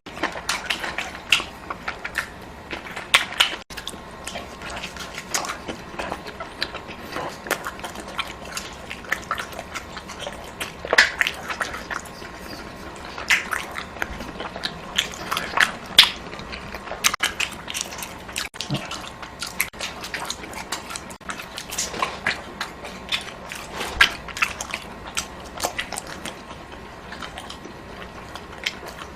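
Close-miked eating: a person chewing and biting with many irregular wet clicks and smacks.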